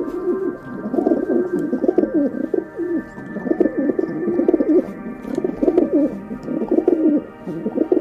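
Rock pigeons cooing: a run of low, throaty, warbling coos in several phrases with short pauses between them.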